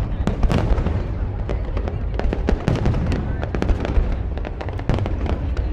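Fireworks display going off: a dense run of sharp crackling pops and bangs over a continuous low booming rumble.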